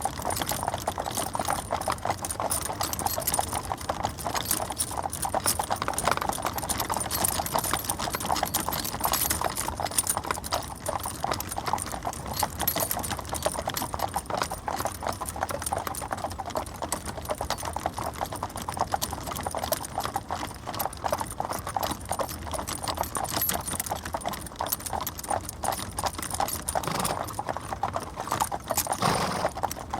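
Stagecoach drawn by four horses on the move: a fast, continuous clip-clop of many hooves, overlapping at a steady level, with a brief fuller, louder swell about a second before the end.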